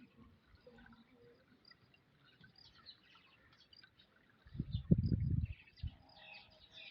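Faint bird chirps. Past the middle comes a loud, low rumbling burst of knocks lasting about a second, followed by one more low knock.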